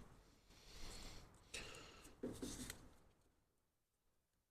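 Faint handling noises, three soft scrapes and rustles, as an electrical connector on the transfer case is worked loose, dropping to silence about three seconds in.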